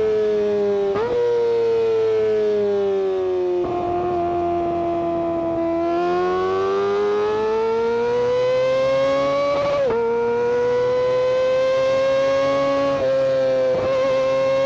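Kawasaki Ninja ZX-25R's 250 cc inline-four exhaust at very high revs, a loud, high-pitched wail. The note sags slowly, climbs again, then holds high, with several brief dips and jumps in pitch along the way.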